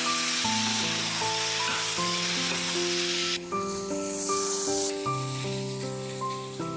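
Food sizzling as it fries in a hot pan, loud for the first three and a half seconds and then much quieter, under background music of held, changing notes.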